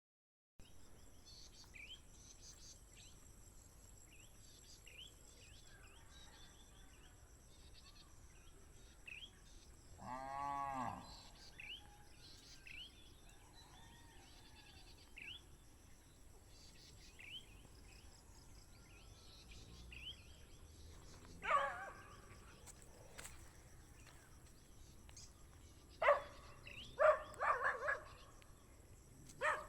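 Outdoor ambience of small birds chirping over and over with short, high, falling chirps, with a single wavering, bleat-like animal call about ten seconds in and several louder animal calls near the end.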